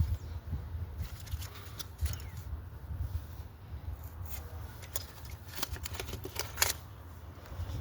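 Scattered sharp clicks and light knocks of tools and parts being handled in an engine bay, over a low steady rumble.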